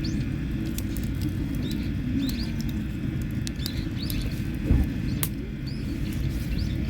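Campfire burning, the wood crackling with scattered sharp pops over a steady low rumble, while a small bird chirps repeatedly.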